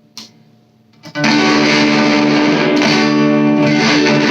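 A faint click, then about a second in an electric guitar chord is struck and rings out, distorted, through an all-tube amp, with the neck and bridge pickups wired in parallel.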